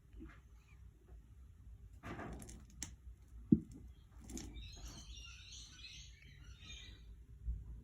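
Quiet lull in a 1999 Miele Novotronic W828 washing machine's cycle: a low hum with a few faint clicks and one sharp knock about three and a half seconds in, then faint chirping in the second half.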